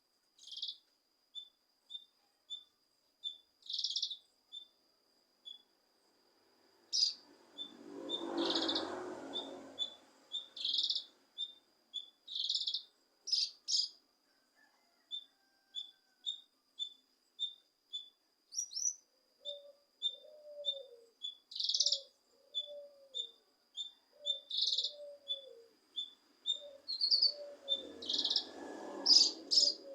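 Cucak kinoi songbird calling: a long series of short, high chirps broken by louder, harsher bursts about a third of the way in and near the end, with lower looping notes in the second half. A thin, steady high tone runs beneath.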